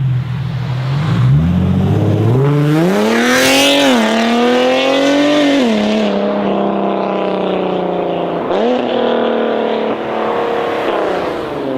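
Nissan 370Z's V6 through a Tomei straight-pipe exhaust, very loud. It starts at a low idle, revs up about a second in, climbs twice, then drops back and holds a steady higher note with a brief dip near the end.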